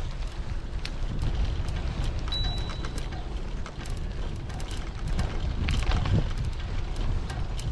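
Bicycle riding along, heard from a camera strapped to the bike: a steady low rumble of tyres and wind on the microphone, with frequent small clicks and rattles from the bike. A brief high tone sounds about two and a half seconds in.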